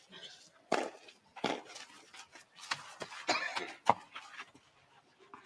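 Tennis ball being struck by racquets in a rally: a handful of sharp pops a second or so apart, the last one just before the four-second mark.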